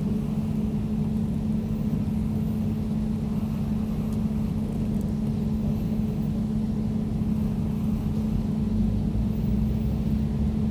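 Air conditioner running: a steady low hum with a constant droning tone, unchanging throughout.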